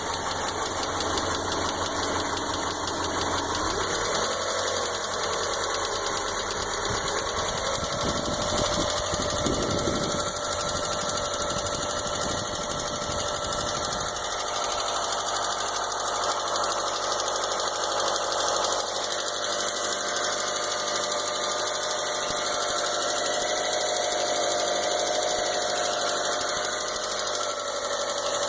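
A 2003 Mitsubishi Galant's 4G64 2.4-litre four-cylinder engine running, with a rapid ticking and a steady tone that shifts in pitch over the first several seconds. The tick persists even with freshly replaced and bled lifters, and the owner does not know its cause.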